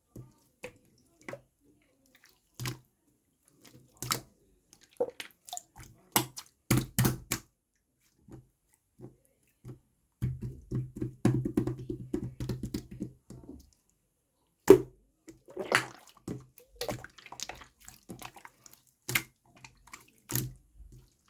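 Hands working a pink slime: scattered sticky clicks and wet pops as it is pressed and stretched, with a run of rapid crackling pops about ten seconds in that lasts around three seconds.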